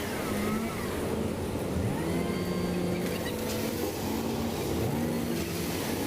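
Diesel engine of heavy construction machinery running, its revs rising twice and settling back.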